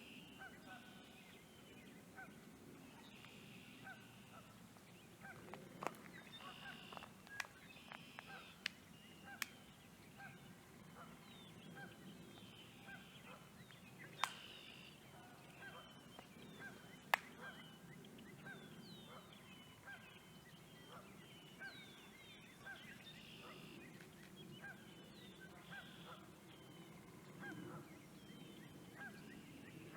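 Faint outdoor bird calls: many short calls repeating throughout, some with quick pitch sweeps, with a few sharp clicks in the middle stretch.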